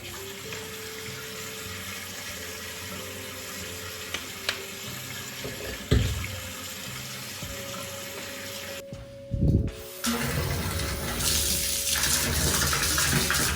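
Water running from a bathroom tap, with a knock about halfway through. After a short break near nine seconds, a louder, brighter rush of running water starts. Soft background music plays underneath.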